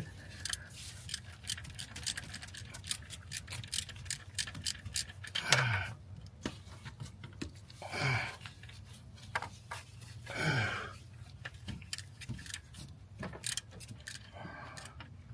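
Hand tools working on the AC compressor's bolts: a ratchet and metal tools clicking and clinking irregularly, with three short strained grunts of effort.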